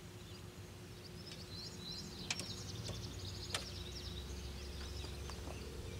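Quiet outdoor background: a low steady hum and rumble, with a bird chirping for a couple of seconds about a second in, and a few sharp clicks.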